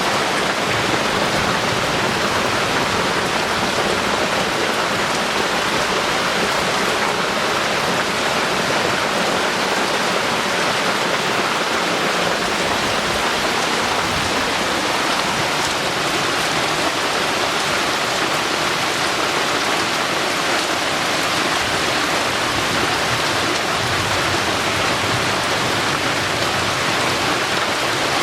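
Heavy tropical downpour: a steady, loud hiss of rain falling and drumming on surfaces, unchanging throughout.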